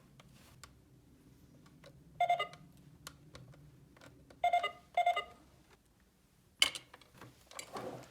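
Electronic beeps from a plastic toy's push-buttons: three short beeps about two, four and a half and five seconds in, between light plastic clicks, then a sharp plastic clack and some clatter near the end.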